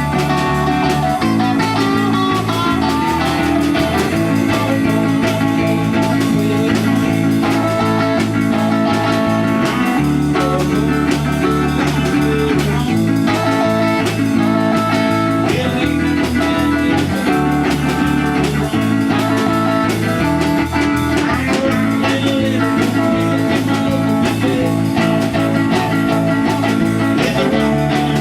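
A band playing an instrumental passage: electric guitar over bass and drums, in a blues-rock style.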